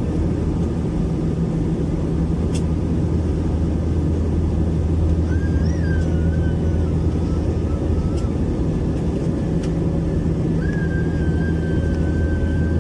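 Airbus A321-200 cabin noise in flight: the steady rush and deep drone of the engines and airflow, with a low hum that eases for a few seconds past the middle. A thin wavering whine rises and falls twice over it, about halfway through and again near the end.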